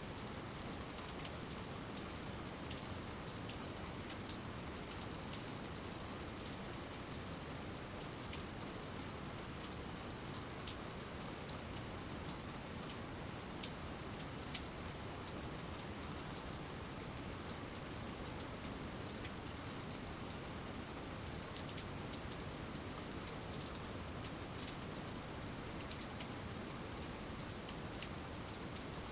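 Steady rain falling, with many scattered drops ticking sharply on a surface.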